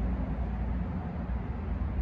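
Metro-North electric commuter train approaching in the distance: a steady, uneven low rumble with a light hiss above it.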